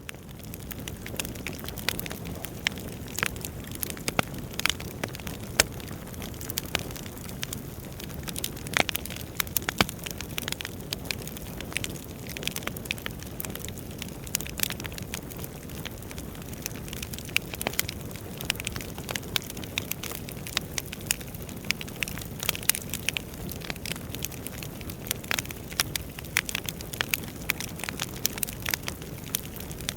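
Wood fire burning in a fireplace: a steady low rumble of flames with dense, irregular crackling and sharp pops from the burning logs.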